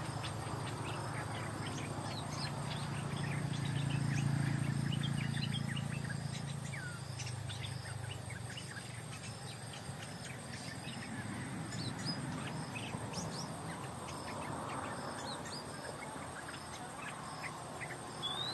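Small birds chirping in short scattered calls, with insects buzzing steadily. Under them a low hum swells a few seconds in and then fades away.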